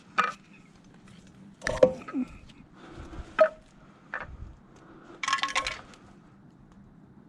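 A series of sharp knocks and clinks of hard objects being handled and set down. The loudest comes about two seconds in, with a quick run of rattling clinks a little past five seconds.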